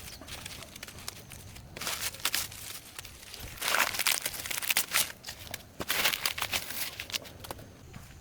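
Crinkling and rustling from something being handled, in three louder bursts about two seconds apart.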